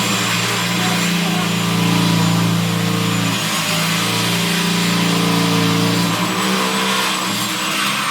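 Electric drill running steadily under load while boring a hole through sheet metal, its motor hum dipping briefly a few times as the load changes, with a high whine above.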